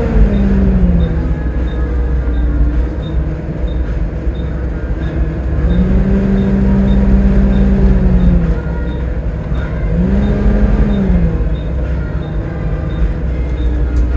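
Volvo B7TL double-decker bus engine running under way, with a steady low rumble and a whine whose pitch rises and falls twice as the bus speeds up and eases off. A faint, regular ticking of about two to three ticks a second runs beneath it.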